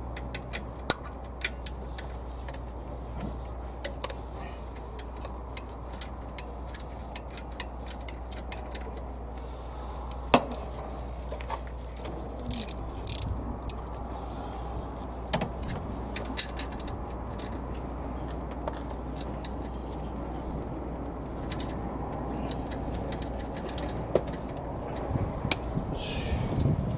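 Hand tools clinking and clicking on metal engine parts in irregular, scattered knocks while the timing belt components are being taken off, over a steady low hum.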